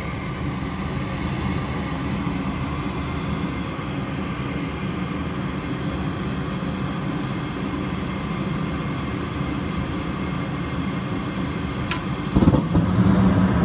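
Goodman gas furnace starting up: the inducer motor runs with a steady hum. Near the end there is a sharp click, and then the level jumps and stays up as the burners light.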